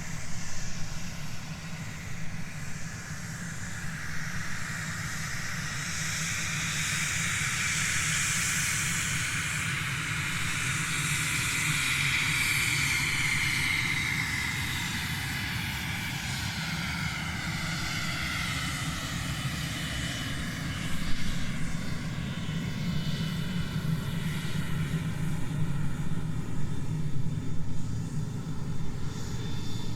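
Aircraft engines running as an airliner comes in, a steady drone with a whine that slowly falls in pitch. Rougher, louder bursts come in over the second half.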